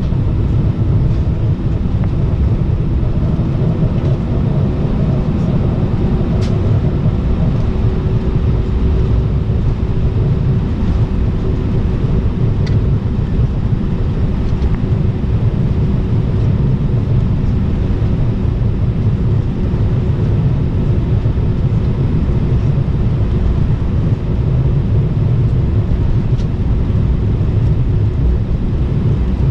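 Airbus A319 passenger cabin noise: a steady low rumble of the jet engines and airframe, with a faint steady hum over it.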